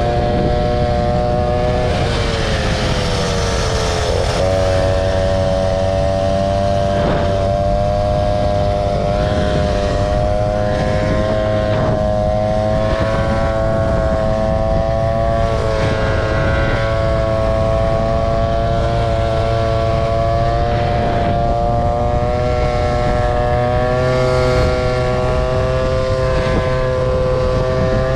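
Scooter engine running at a fairly steady speed under way, its pitch sagging for a couple of seconds early on and then picking back up, with a low rumble of wind and road underneath.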